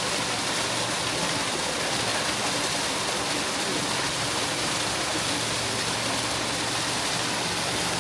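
Water rushing steadily down a small cascade on a mountain stream, an even hiss with no breaks.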